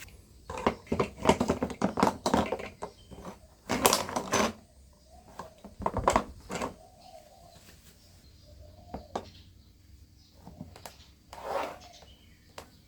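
Irregular clicks and knocks of small hard objects being handled, thickest in the first four seconds, then a few single knocks with quieter gaps.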